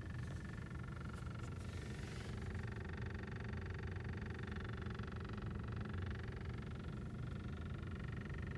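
Volkswagen Jetta idling at a standstill, heard from inside the cabin, with a faint intermittent knock from the front passenger door or glovebox area. The source of the knock is unknown: pressing on the glovebox lid and on parts of the door did not stop it.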